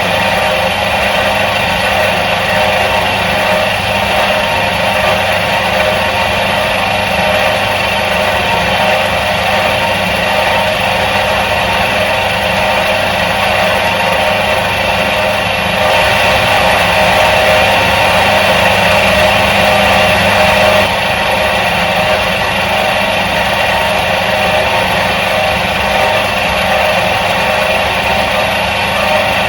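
Electric motor of a 1977 Soviet washing machine running steadily, a little louder for about five seconds past the middle.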